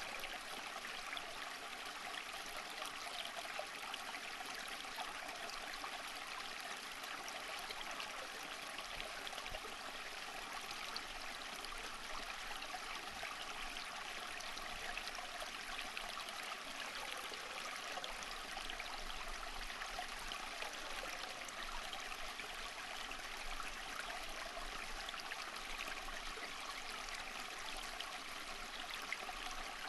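Water flowing steadily in a stream, a continuous even rush with fine splashing and trickling.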